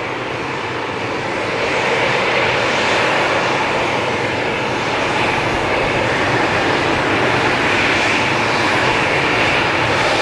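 Jet airliner's turbofan engines running with a steady roar and whine, growing louder about two seconds in and then holding.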